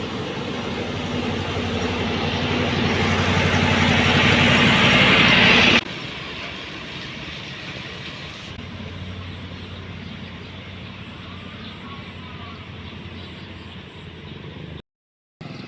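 Heavy road-construction machinery engine running steadily, growing louder over the first six seconds, then cutting abruptly to another, quieter machine engine sound.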